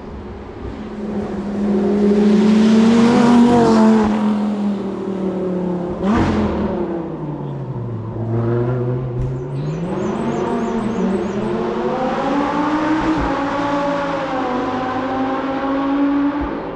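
Hillclimb race car engine accelerating hard, its pitch climbing and dropping again and again through gear changes as the car passes and carries on up the course. About six seconds in there is a short sharp rising burst, and around nine seconds a brief run of high chirps.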